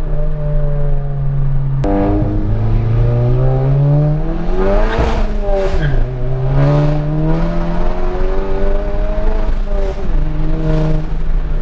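Straight-piped Volkswagen Mk7 Golf GTI's turbocharged four-cylinder on an EQT stage 2 tune pulling hard through the gears: the exhaust note climbs in pitch, drops at a gear change, climbs again, then settles into a steady cruise. It is loud throughout.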